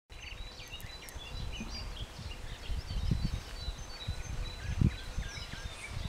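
Small songbirds chirping and twittering in many short, overlapping calls, with a few low muffled rumbles on the microphone, loudest about three seconds in and near the end.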